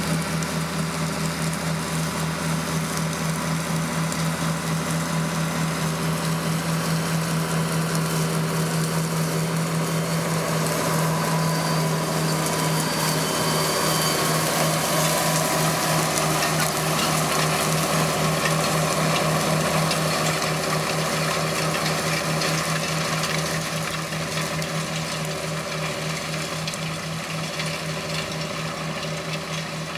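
John Deere 8530 tractor's diesel engine running steadily under load while it pulls a cultivator through stubble, with an even, pulsing engine note that eases a little about two-thirds of the way through.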